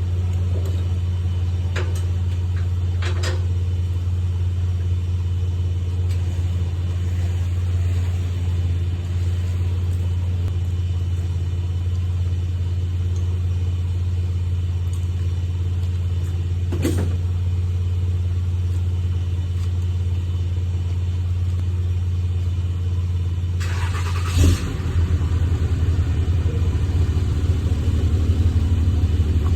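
A motor vehicle engine running steadily with a low, even note, with a few sharp clicks. About 24 seconds in, a brief burst of noise, after which the engine note turns rougher and pulsing and grows a little louder.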